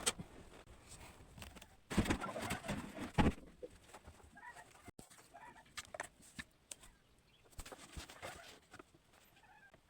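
Chickens clucking in short calls now and then, with a loud noisy burst about two to three seconds in and scattered clicks.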